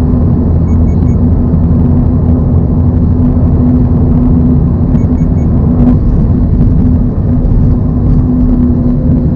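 A 2024 Toyota GR86's 2.4-litre flat-four engine droning steadily with road noise at a constant cruising speed. Three short high beeps sound twice, about a second in and about five seconds in.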